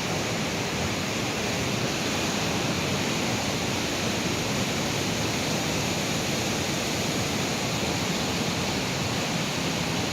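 Steady rushing of a fast creek flowing over rocks, an even, unbroken wash of water noise.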